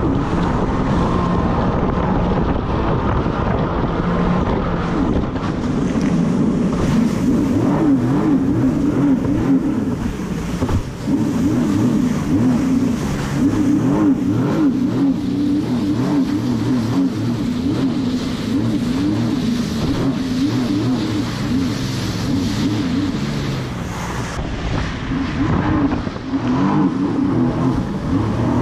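Sea-Doo jet ski engine running at speed, its pitch wavering up and down continually as the throttle and load change, with wind rushing over the microphone.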